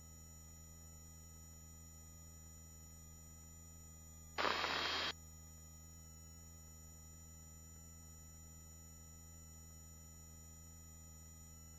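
Steady low hum of a helicopter heard through the headset intercom, with faint steady tones over it. About four seconds in, a short loud burst of hiss, under a second long, cuts in and stops abruptly.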